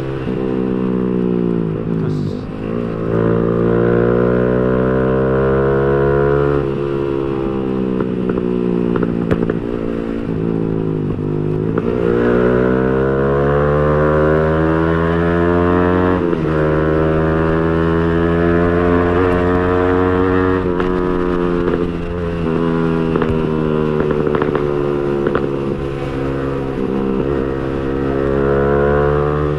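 Yamaha R15 V3's 155 cc single-cylinder engine breathing through an aftermarket Villan Agusta racing exhaust while ridden: the revs climb repeatedly and drop sharply at gear changes, then rise again, with a loud, open exhaust note throughout.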